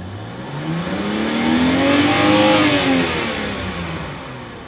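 A car engine going by: its pitch rises and it grows louder for about two and a half seconds, then the pitch falls and the sound fades away.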